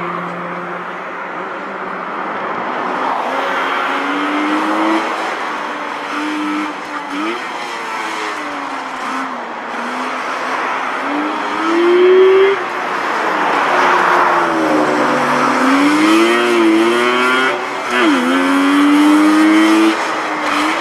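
Suzuki LC10W Fronte Coupé's small two-stroke three-cylinder engine revving up and easing off again and again as the car is driven hard through a cone course. Tyres squeal in the turns, loudest about halfway through.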